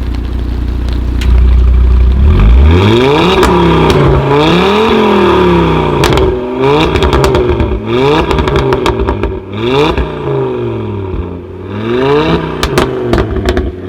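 A tuned car's engine idling, then revved hard over and over, the pitch climbing and dropping back about seven times, with sharp exhaust crackles and pops as the revs fall.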